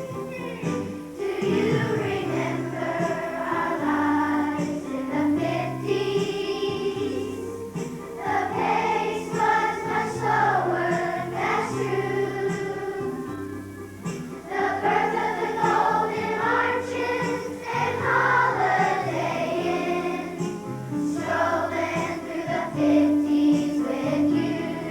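A choir of schoolchildren singing a song together over instrumental accompaniment with a steady bass line.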